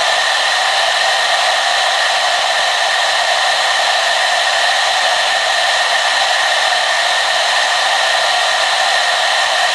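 Hair dryer running steadily: a constant high airy rush with a faint steady whine, unchanging throughout.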